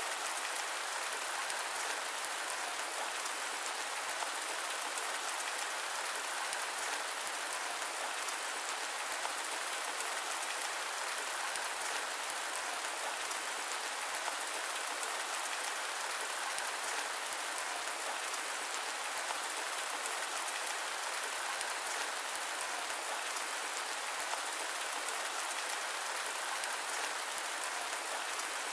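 Steady rain falling, an even hiss of many small drops with little low rumble and no thunder.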